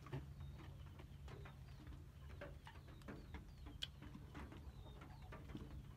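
Faint outdoor ambience: scattered short bird chirps and small clicks over a low steady hum.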